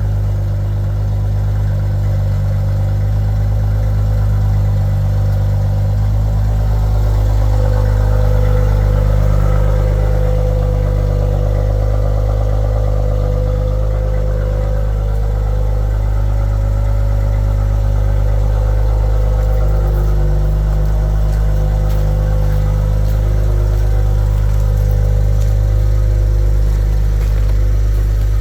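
Maserati Ghibli engine and exhaust idling steadily just after a cold start on a freezing morning, a deep even drone that lifts slightly a few seconds in.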